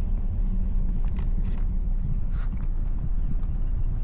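Steady low rumble of a car moving slowly, heard from inside the cabin, with a few short clicks or taps in the middle.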